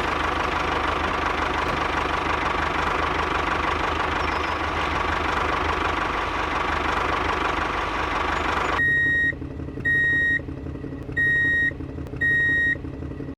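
Engine running steadily with a faint whine, cut off abruptly about nine seconds in. A quieter low hum follows, with four evenly spaced electronic beeps like a reversing alarm.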